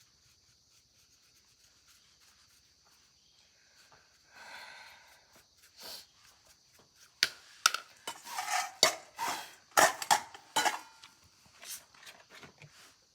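Bicycle-repair tools and parts being handled: a brief scrape, then a flurry of sharp clinks, knocks and rubbing about halfway through.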